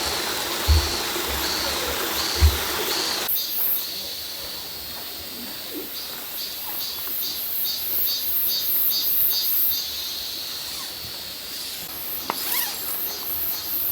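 Outdoor forest ambience: a steady hiss with a high, chirping call repeating. The call comes roughly every 0.7 seconds at first; after an abrupt change about three seconds in, a faster high chirping runs at about three pulses a second.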